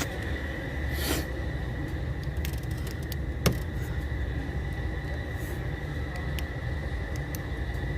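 Steady low rumble of an idling vehicle engine with a steady high-pitched tone over it, and one sharp click about three and a half seconds in.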